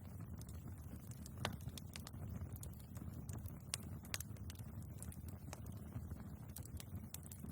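Wood fire burning in a fireplace: crackling and popping logs over a steady low rumble of flame, with scattered sharp pops, the loudest about a second and a half in and again near four seconds.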